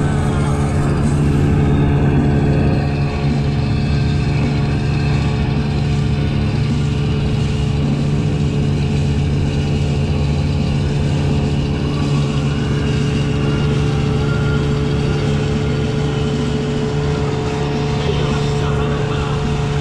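Gladiator 9.9 hp outboard motor running at a steady speed as the boat moves along.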